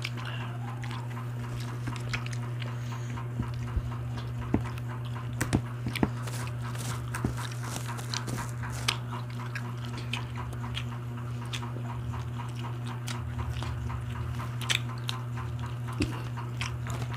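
Close-miked chewing, biting and lip-smacking of people eating grilled barbecue skewers: a steady run of short wet clicks and smacks, over a steady low hum.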